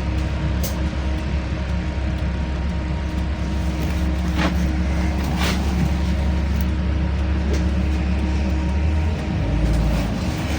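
Interior ride noise of a LiAZ-5292.65 city bus under way: a steady low engine and road drone with hum lines above it. A few short rattles come about four and a half and five and a half seconds in, and the low drone shifts near the end.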